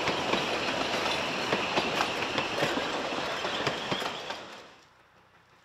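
Narrow-gauge steam train rolling past, its wheels clicking over the rail joints with a high squeal from the wheels. The sound drops away quickly about four and a half seconds in.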